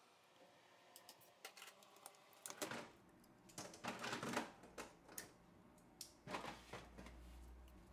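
Faint, irregular clicks and short scraping sounds of small tools and phone parts being handled during reassembly, busiest in the middle.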